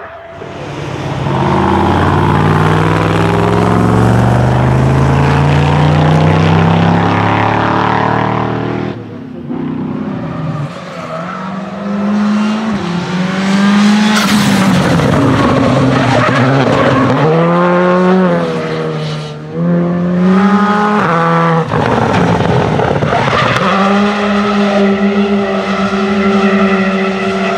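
Alfa Romeo Giulia Quadrifoglio's twin-turbo V6 pulling hard out of a drift, its note climbing through several gears. About nine seconds in, it gives way to a Skoda Fabia R5 rally car's turbocharged four-cylinder at high revs, rising and falling through gear changes and holding a steady high note near the end.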